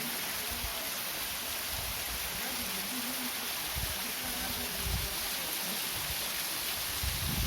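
Waterfall rushing in a steady, even hiss, with a few brief low thumps.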